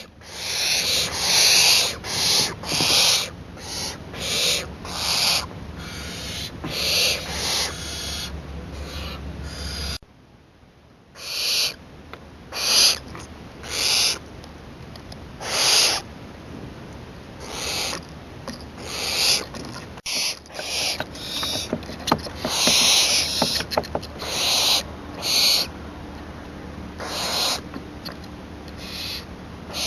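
Young barn owl giving a long series of harsh hissing screeches, each under a second long and repeated every second or so, the begging call of an owlet near fledging.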